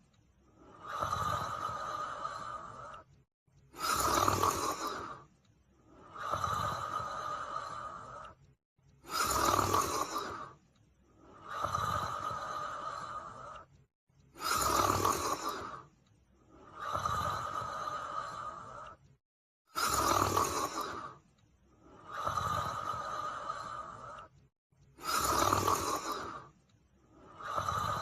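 A female Hamiltonstövare hound snoring in her sleep. Each breath gives a short, loud snore followed by a longer, softer one, the pair repeating steadily about every five seconds; the loud snore comes five times.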